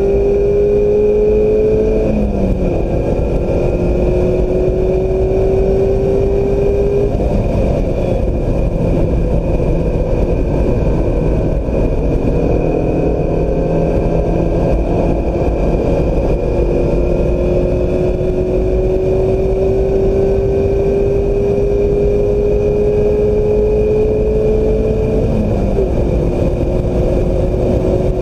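A Mazda MX-5 Miata's 2.0-litre four-cylinder engine pulling hard on track, its note rising steadily and dropping sharply at an upshift about two seconds in and again near the end. For several seconds in the middle the engine note fades under a steady rush of noise, then climbs again.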